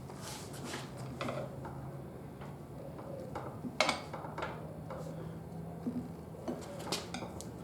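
Scattered light clicks and knocks of tyre levers and clamps against a motorcycle wheel rim and tyre, with a sharper knock about four seconds in, over a low steady hum.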